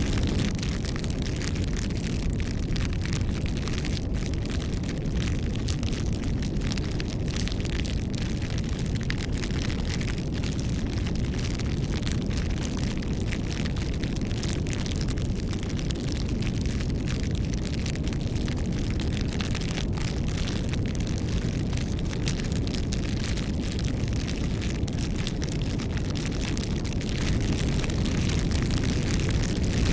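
Bonfire burning: a low rumble of the flames with many small crackles and pops scattered through it, slightly louder near the end.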